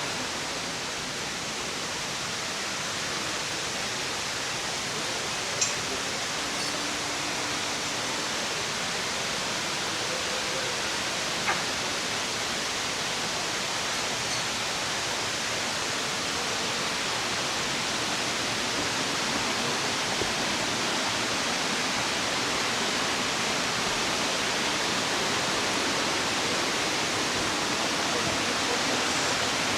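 Kursunlu Waterfall's cascading water: a steady, even rush that grows gradually louder. Two brief clicks about six and twelve seconds in.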